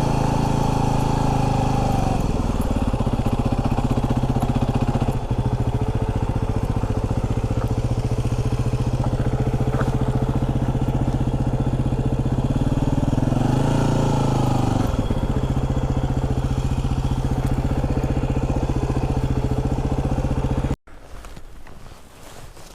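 Yamaha WR250R's single-cylinder 250 cc four-stroke engine running at low speed, dropping in pitch to a steady idle about two seconds in, with a brief rise and fall in revs about two-thirds of the way through. The engine sound stops abruptly near the end.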